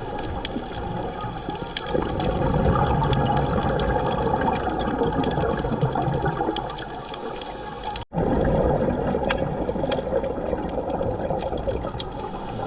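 Underwater sound picked up by a diver's camera: the rushing of scuba bubbles, swelling louder for a few seconds, over a steady faint crackle of fine clicks. The sound cuts out for an instant about two-thirds of the way through, then carries on.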